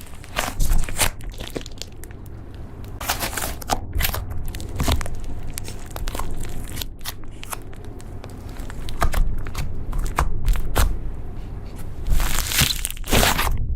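Slime being squeezed, poked and stretched by hand, giving irregular crackles, crunches and small pops.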